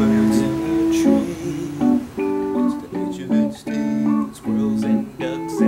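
Acoustic guitar strumming chords in a steady rhythm, the chords changing about every half second.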